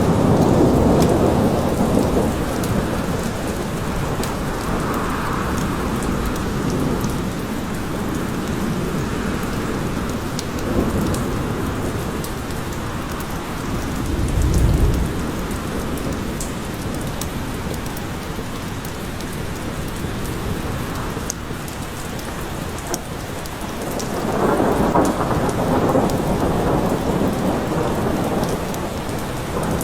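Steady rain falling, with rumbles of thunder swelling in and out; the deepest rumble comes about halfway through.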